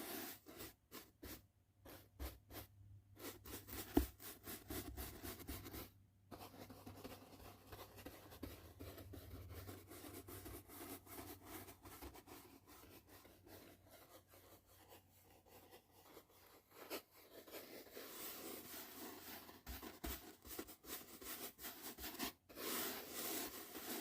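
Soft brush strokes sweeping over the microphone: a run of quick, separate strokes with a sharp tap about four seconds in, then longer, continuous brushing that grows louder near the end.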